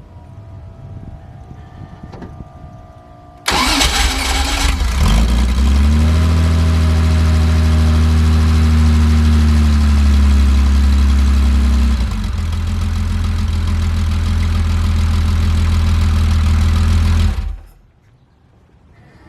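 1982 Porsche 911SC's air-cooled flat-six with twin-plug ignition, started cold: it fires about three and a half seconds in and revs up briefly. It then holds a fast cold idle that slowly eases, drops to a lower idle about twelve seconds in, and is switched off shortly before the end.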